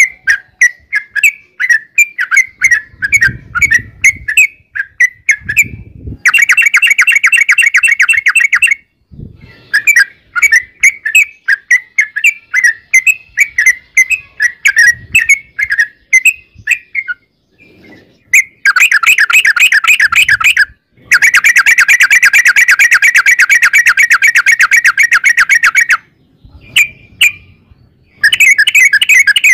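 Yellow-vented bulbul (trucukan) singing: loud runs of bubbly chirped notes alternating with long fast trills, the 'ropel', the longest lasting about five seconds in the second half.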